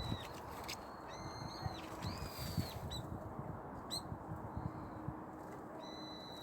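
A bird calling outdoors: a few flat, high whistled notes, each just under a second long, spread through the clip, over a low rumble.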